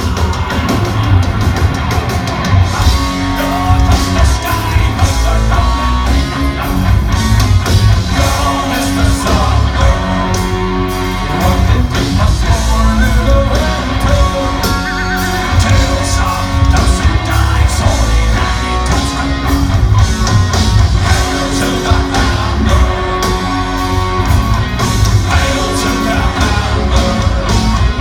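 Live heavy metal band playing in a large hall: distorted electric guitars, bass and rapid kick drums, with a singer's voice over them.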